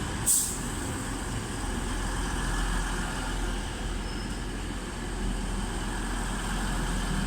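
Class 185 diesel multiple unit's underfloor diesel engines running at the platform, a steady low drone, with a short hiss about a third of a second in.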